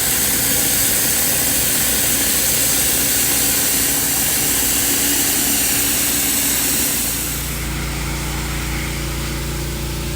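Gas pressure washer engine running with the water jet hissing steadily. About seven seconds in, it cuts to a quieter, steady humming sound.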